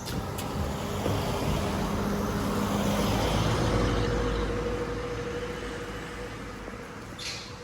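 Motor vehicle engine and road noise swelling to a peak about four seconds in, then fading away.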